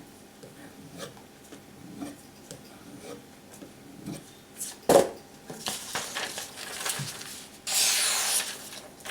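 Knife blade scraping and rubbing, with small handling clicks and a sharp knock about five seconds in, then a loud hissing rasp of steel drawn across a surface near the end.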